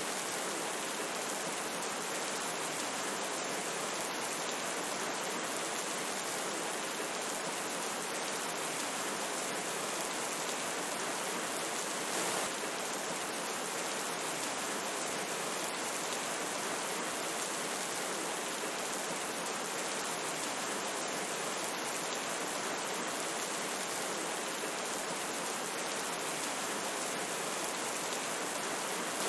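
Steady rushing of a river with rain falling, an even hiss of water flecked with fine drop sounds.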